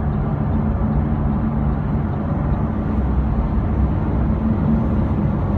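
Lamborghini Aventador's V12 engine running at a steady pitch under way on the highway.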